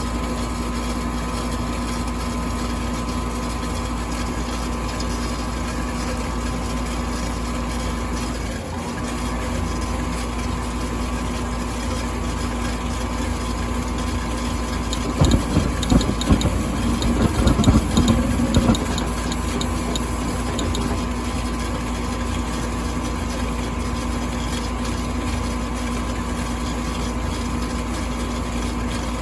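Furnace running with a steady hum. About halfway through, a few seconds of louder, irregular clicking and rattling break in. This is the clicking fault the owner is recording.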